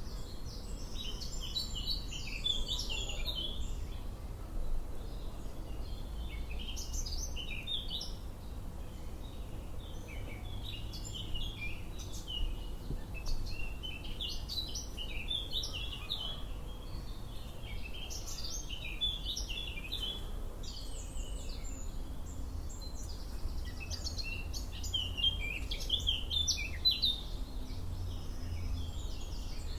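Songbirds singing outdoors: short, quick chirping phrases keep coming throughout, overlapping at times, over a steady low rumble.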